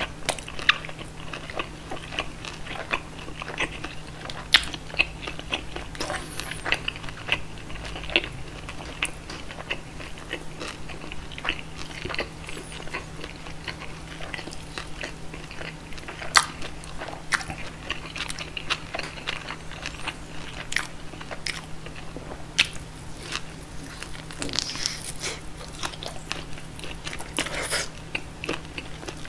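Close-miked chewing and biting of roast pork knuckle (schweinshaxe): wet mouth sounds with many sharp clicks and occasional crunches.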